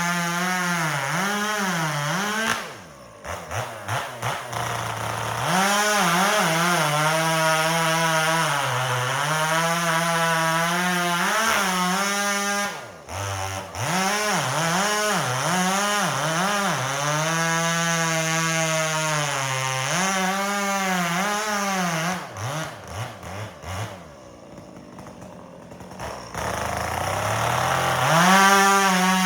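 Two-stroke chainsaw bucking firewood, running at high revs with the pitch dipping and recovering as the chain bites into the wood. It drops back to idle briefly three times: about 3 seconds in, around 13 seconds in, and for a few seconds near the end, before revving up again.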